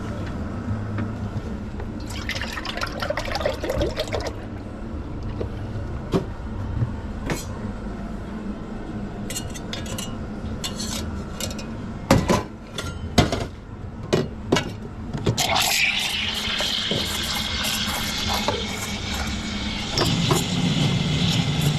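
Liquid running into a container, with clinks of glass and crockery and a few knocks a little past halfway. In the last few seconds there is a steady hiss with a rising tone.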